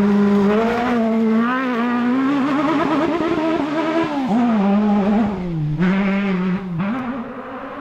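Off-road rally buggy's engine revving hard under load as the car climbs past and away, its pitch rising and wavering, then dropping sharply a few times with throttle lifts. The engine note grows fainter near the end as the car pulls away.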